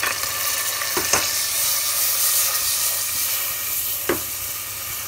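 Green peas sizzling steadily in hot yellow mustard oil with cumin and spices in the bottom of a pressure cooker, with two short knocks about a second in and about four seconds in.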